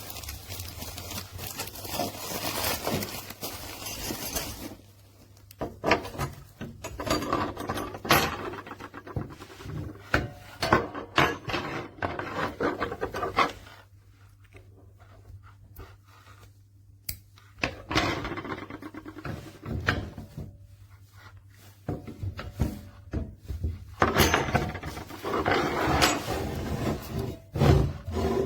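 Irregular rubbing, scraping and knocking of objects being handled at close range, with a quieter spell in the middle.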